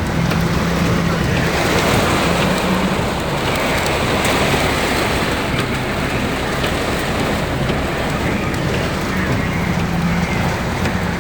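Heavy rain falling steadily, with a steady low engine hum underneath.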